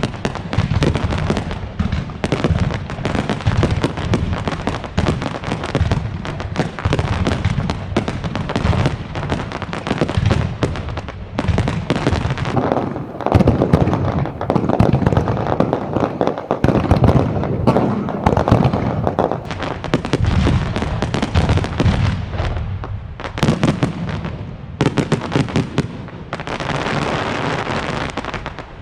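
Aerial fireworks display: a dense, continuous barrage of bangs and crackling. Near the end it turns into a steady rushing hiss for about two seconds, then cuts off abruptly.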